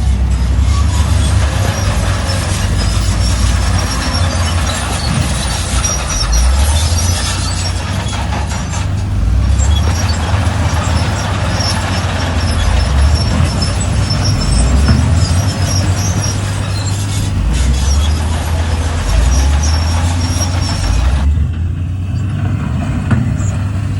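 Heavy diesel engine of a Shantui crawler bulldozer working under load, its pitch rising and falling as it pushes. Steady clatter and scraping sit over it, with scattered high-pitched metallic squeaks.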